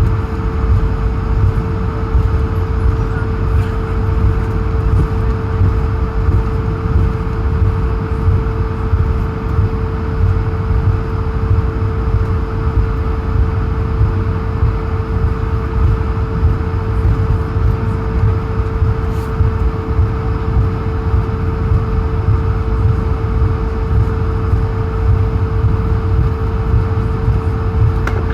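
Cabin noise inside an Airbus A220-100 taxiing on the ground: its Pratt & Whitney PW1500G geared turbofans at idle, with a steady low rumble and one constant hum.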